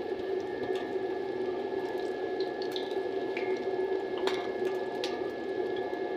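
A chapli kabab patty sizzling steadily as it deep-fries in hot ghee in an iron kadai, with a few sharp pops through the sizzle.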